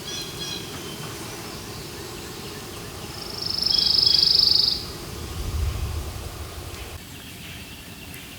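Wild bird calling: faint high whistled notes at the start, then a loud, harsh, high-pitched call lasting about a second and a half midway, followed by a brief low rumble.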